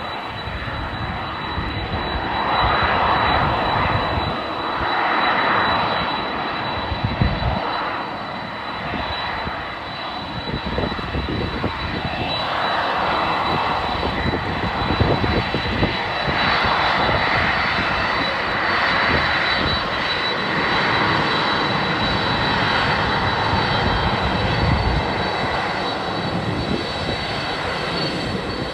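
Jet engines of a Boeing 767-300ER airliner running with a rushing sound that swells and fades several times. Gusty wind rumbles on the microphone underneath.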